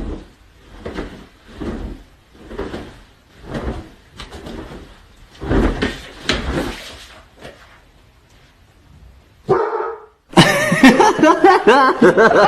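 A dog barking repeatedly, roughly one bark a second. After a short lull, louder drawn-out cries come in the last two seconds.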